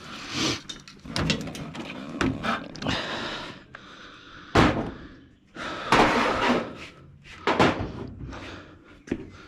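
Metal tools clanking and knocking against the engine and turbo hardware while stubborn turbo bolts are worked with a socket extension: a run of irregular sharp knocks and short scraping bursts, the loudest about halfway through and around six and seven seconds in.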